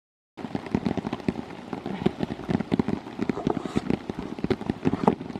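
Rain falling hard, its drops tapping close to the microphone in a dense, irregular patter; the sound cuts in abruptly just after the start, following a moment of dead silence.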